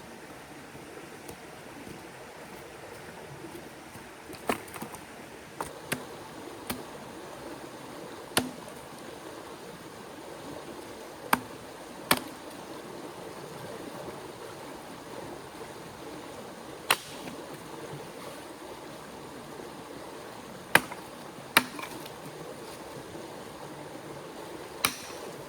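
Steady rush of a river, with about a dozen sharp, irregularly spaced clicks and knocks over it.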